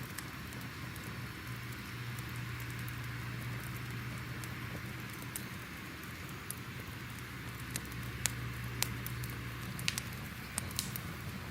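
Crackling wood fire: a steady low rumble and hiss with irregular sharp pops and snaps, several close together near the end.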